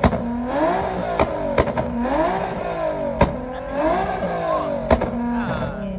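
Car engines revving again and again, each rev rising and falling in pitch and overlapping one another, with a sharp crack now and then.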